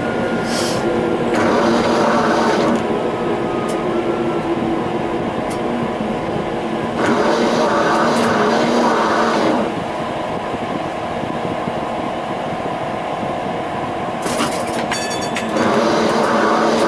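Tram in motion: a steady electric motor whine over the rolling noise of wheels on rails, which grows louder in several stretches. A short run of fine high ticks sounds near the end.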